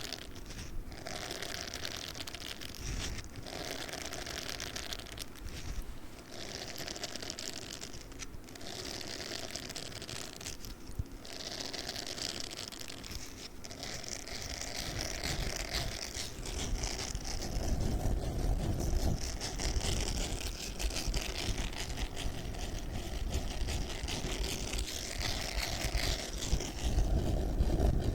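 Spiky sponge rubbed and squeezed against the microphone, giving a continuous scratchy rustle with brief pauses in the first half and a heavier, rumbling scrape in the second half.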